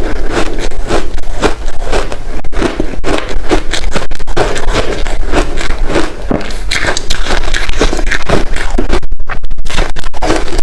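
Close-miked crunching and chewing of hard ice chunks dusted with matcha powder: a dense, continuous run of crackling bites, with a short pause about nine seconds in.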